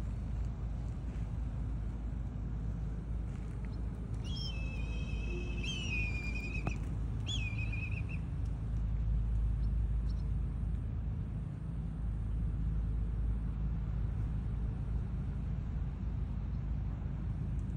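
A bird's clear whistled calls, one long held note about four seconds in and a shorter, wavering one about three seconds later, over a steady low rumble.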